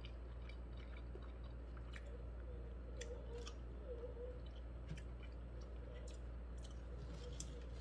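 A person chewing a mouthful of food, with scattered faint wet clicks of the mouth over a steady low hum.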